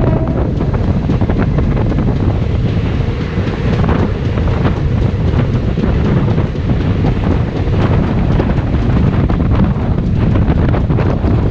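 Wind rushing over the microphone and the steady rumble of train wheels at speed, heard from the open doorway of a moving express train running alongside another train, with scattered clicks.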